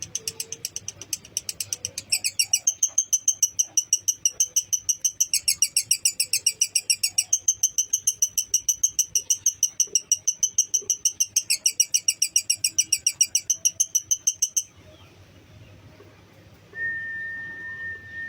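Lovebird's long chattering trill (ngekek): a fast, shrill string of repeated chirps, about five a second, that cuts off suddenly about fifteen seconds in. Near the end a single steady whistled tone is held for about two seconds.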